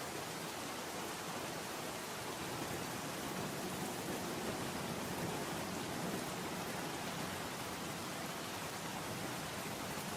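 Steady rain, an even, dense hiss of drops with no breaks or distinct crackles.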